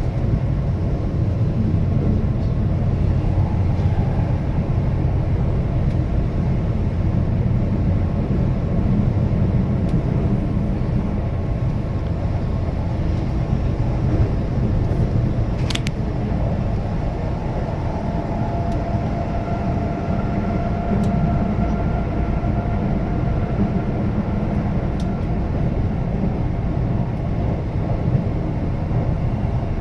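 Keihan limited express train running along the line, heard from inside the front car: a steady low rumble of wheels on rails, with a sharp click about halfway through and a faint steady whine in the second half.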